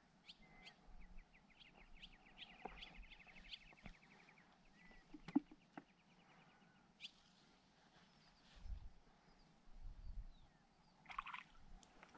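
Faint birdsong from a small songbird: a fast trill of about ten repeated notes a second, sung twice, with scattered chirps. A single sharp knock comes about five seconds in.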